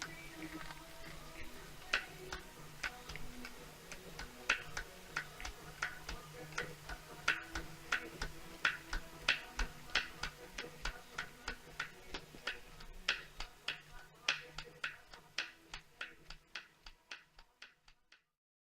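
Smart Roadster's three-cylinder engine running cold, with a sharp knocking tick about two to three times a second over the steady low hum of the engine. This is piston slap: the pistons rocking in cylinders worn loose, a clatter that eases as the engine warms. Near the end the ticks and hum fade out.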